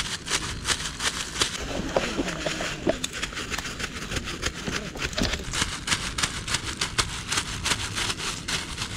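A knife chopping plantain into small pieces, a quick, fairly even run of clicks that goes on for several seconds.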